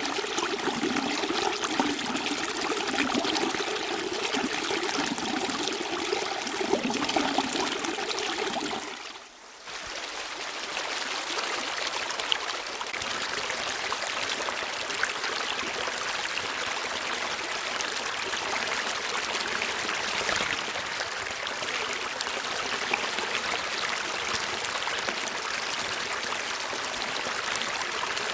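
Running water, like a small stream, flowing with a trickling, gurgling texture. About nine seconds in it briefly drops away and comes back as a smoother, more even rush of water.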